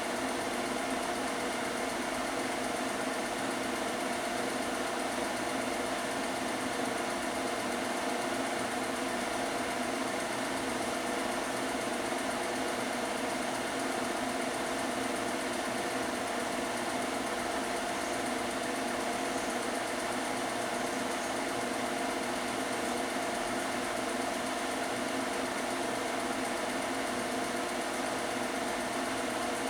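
Film projector running steadily: an even mechanical hum with a hiss over it, unchanging throughout.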